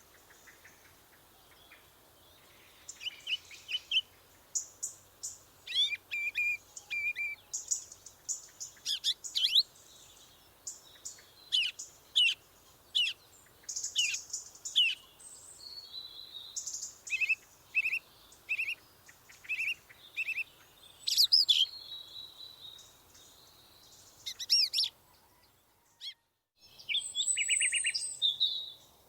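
Birds chirping and calling in a string of short, high chirps, quick trills and sharp sweeping whistles, with short pauses between phrases. The sound cuts out briefly near the end, then a high trill follows.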